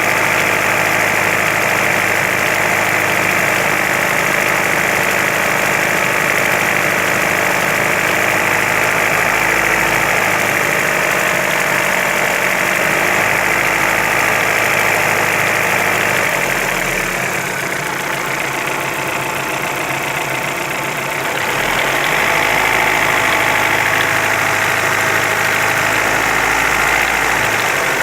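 Engine running steadily with a knock, the knocking sound whose source is in question. For a few seconds past the middle it drops a little quieter and loses its deepest tones, then comes back.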